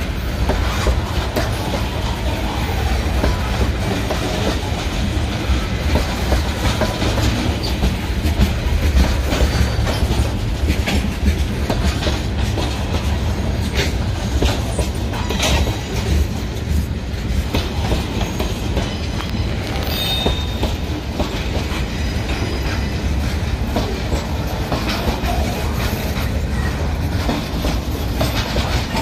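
Freight train cars, tank cars and then boxcars, rolling past: a steady heavy rumble with the wheels clacking over the rail joints. A few brief high wheel squeals come a little past halfway.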